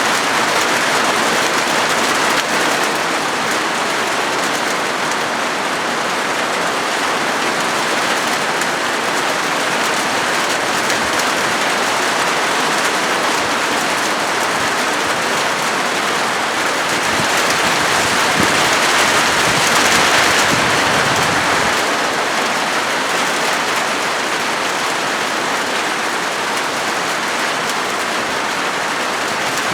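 Rain falling steadily on a corrugated galvanized-metal (zinc sheet) roof, a dense even noise that grows louder for a few seconds about two-thirds of the way through.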